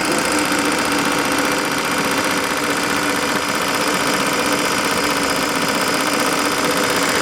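Model steam engine of an RC boat running steadily, with a rapid even beat and steam hiss.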